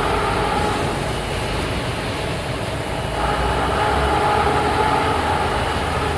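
A heavy engine running steadily with a deep hum, growing a little louder about three seconds in.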